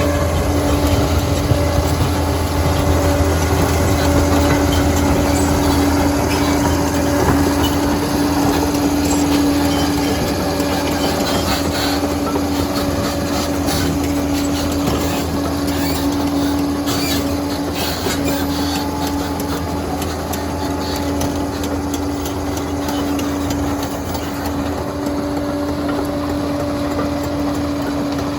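Liebherr PR 746 crawler dozer working: its diesel engine runs with a steady drone and a steady whine, with the clank of steel tracks now and then, most between about 12 and 18 seconds in.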